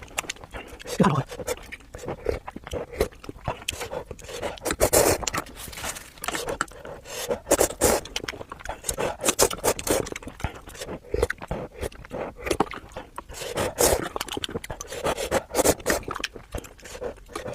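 Close-up eating sounds of udon noodles: irregular slurping and chewing, with many quick mouth clicks.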